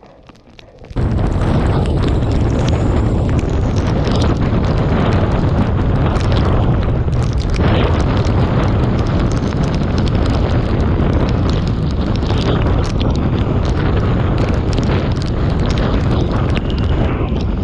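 Typhoon eyewall wind hitting the microphone, a loud, continuous blast of noise heaviest in the low end. It cuts in abruptly about a second in, after a quieter stretch.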